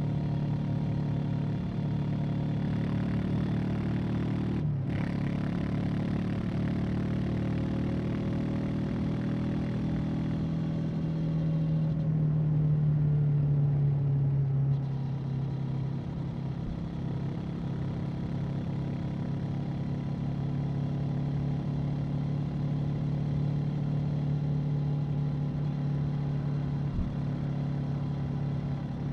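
Honda CB500X's parallel-twin engine and exhaust running steadily under way, with a brief cut in the engine note about five seconds in. From about twelve seconds in it gets louder with a slightly rising note under more throttle, then drops back abruptly near fifteen seconds and settles to a steady cruise.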